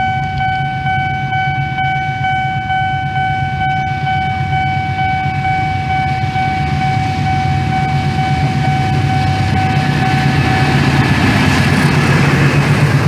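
Diesel locomotive horn held in one long steady blast that cuts off about eleven seconds in, over the low rumble of the locomotive engines. Near the end the rumble grows louder and the wheel and rail noise swells as the double-headed train draws closer.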